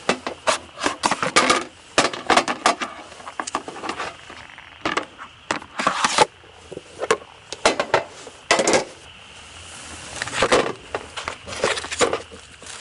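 Irregular clusters of sharp clicks, knocks and rustles, like objects being handled and set down close to the microphone, with short pauses between the bursts.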